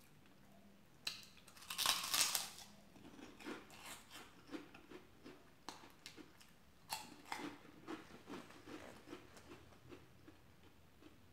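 Close-miked bite into a crunchy snack about two seconds in, followed by chewing with a run of soft crunches and wet mouth clicks.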